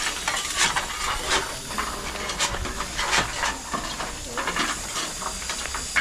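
Steam locomotive standing and hissing steam, with scattered knocks and clunks through it.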